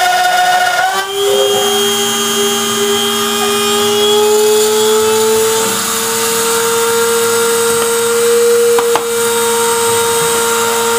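A router spindle on a desktop CNC machine running as it mills holes in a plastic box, a steady motor whine. Its pitch shifts about a second in, then climbs slowly.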